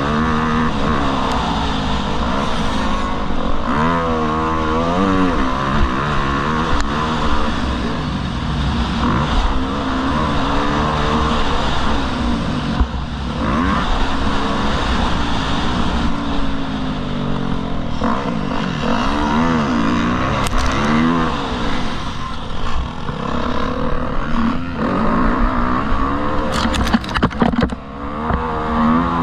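Motocross bike engine being ridden hard, its pitch rising and falling over and over as the rider revs and shifts, with a few sharp clicks or knocks near the end.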